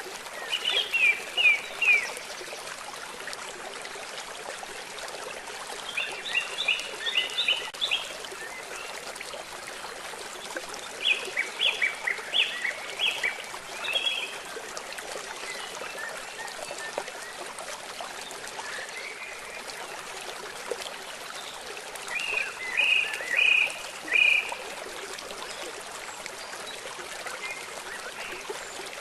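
A steady rush of flowing river water, with a songbird calling in four bouts of quick high chirps over it, each bout lasting one to three seconds.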